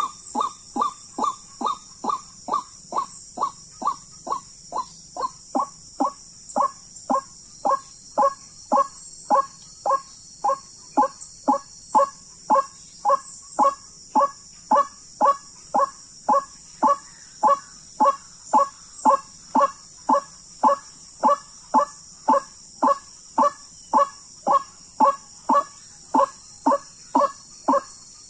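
White-breasted waterhen calling, one short note repeated steadily about twice a second for the whole stretch, a little faster at the start.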